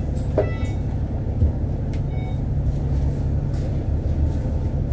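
Inside a KMB Alexander Dennis Enviro500 MMC double-decker bus as it runs: a steady low engine and road rumble, with a couple of short clicks or rattles about half a second and two seconds in.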